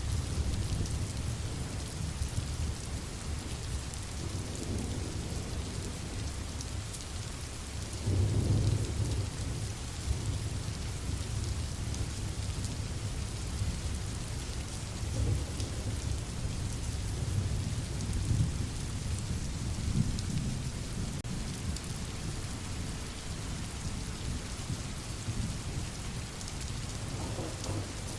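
Steady rain falling, with low rolling thunder rumbling underneath, swelling loudest about eight seconds in.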